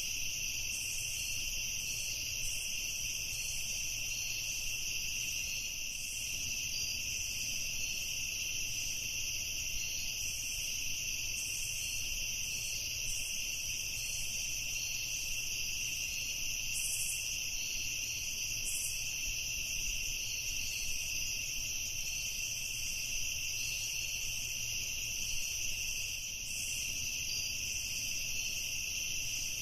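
Evening chorus of crickets, a steady high-pitched trilling that never breaks, with a faster flickering shimmer above it.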